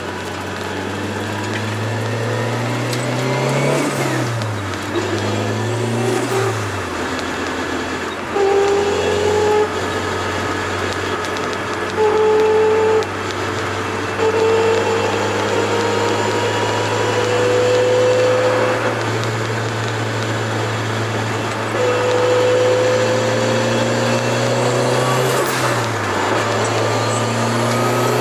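Turbocharged Toyota AE86 engine running while driving. Its pitch drops and climbs back a couple of times near the start and once near the end, like gear changes. In between, a higher steady whine comes and goes several times, rising slowly in pitch.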